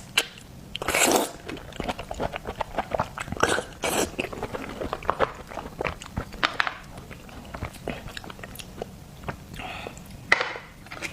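Close-miked wet chewing of a raw oyster: many small, quick mouth clicks and smacks, with several louder breathy bursts spread through.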